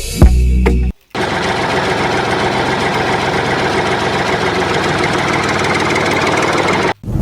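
A brief low rumble, a short break, then the DIY mini tractor's small motor running steadily with a dense, rapid buzz. The buzz cuts off abruptly near the end.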